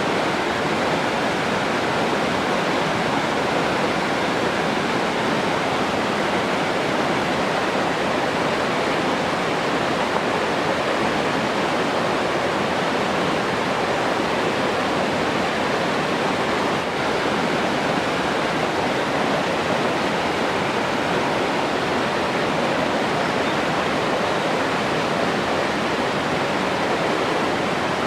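Steady, unbroken rushing of flowing water, as from a waterfall or fast stream.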